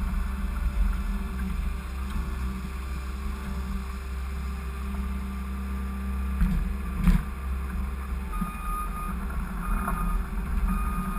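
Skid steer's diesel engine running steadily under the VersaBox plow, with a sharp knock about seven seconds in and short high beeps from about eight seconds on.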